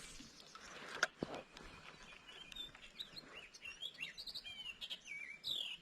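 Small birds chirping: a quick run of short rising and falling notes through the second half. A couple of sharp knocks about a second in.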